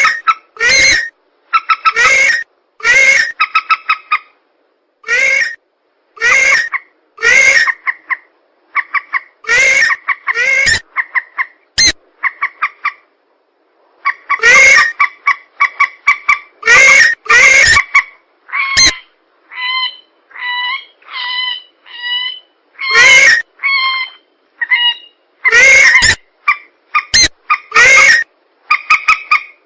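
Lure recording of swamp birds, mandar (a rail) and pelan, calling. Loud harsh calls come about once a second in runs broken by short pauses, and a string of softer, clearer calls falls in the middle.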